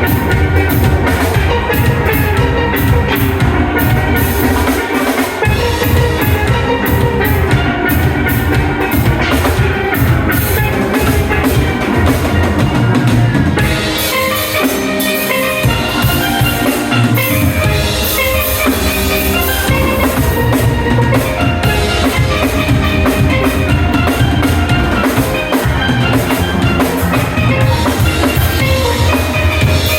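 Steel band playing: steel pans carry the melody over a drum kit. The low drums drop out briefly about five seconds in and again for a few seconds near the middle.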